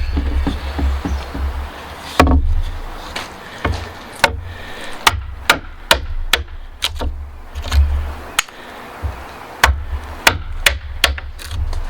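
Mallet striking a wood chisel, chopping out a joint: a string of sharp knocks at irregular intervals, often two or three a second, over a low rumble.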